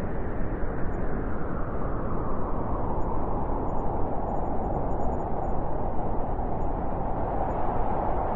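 Blizzard wind blowing steadily, a dense rushing noise.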